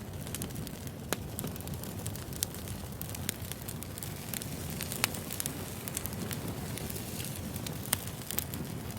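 Wood fire burning, crackling with irregular sharp pops over a low steady rumble; a few pops stand out louder than the rest.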